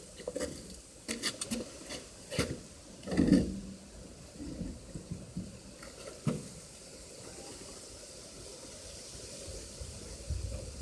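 Cookware and utensils being handled, with a run of sharp knocks and clinks over the first few seconds, the loudest about three seconds in, and a couple more around six seconds. After that there is only a steady low background hiss.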